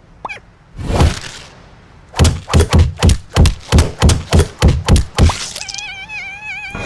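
Cartoon sound effects of a club striking: a short squeak, one thud, then a run of about ten heavy whacks, roughly three a second. A wavering whistle-like tone follows near the end.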